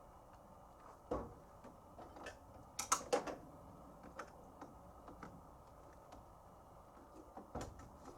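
Scattered mechanical clicks and knocks, with a louder cluster of sharp clicks about three seconds in.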